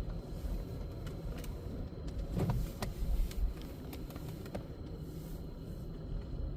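Car driving slowly, heard from inside the cabin: a low steady engine and road rumble with a few light clicks.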